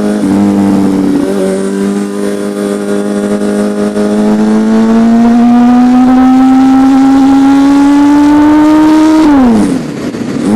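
Honda CBR1000RR Fireblade's inline-four engine under way, its pitch climbing steadily as the bike accelerates in gear, then dropping quickly near the end as the throttle is closed.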